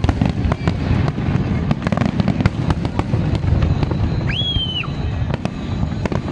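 Fireworks display: a continuous low booming rumble packed with sharp cracks and bangs, and a short high whistle a little past four seconds in.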